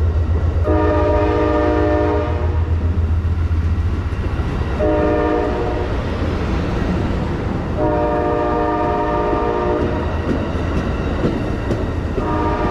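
Diesel locomotive air horn sounding a multi-note chord in four blasts: long, short, long, and a fourth starting near the end. A steady low rumble of the train runs underneath.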